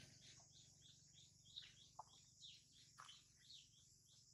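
Faint chirping of small birds: a run of short, high chirps, each dropping in pitch, about three a second, over quiet outdoor background.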